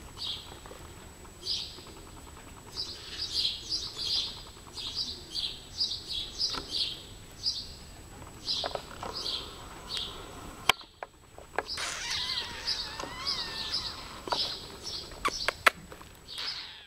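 Small birds chirping over and over, several short high calls every second, with warbling calls joining in about two-thirds of the way through. A few sharp clicks sound near the end.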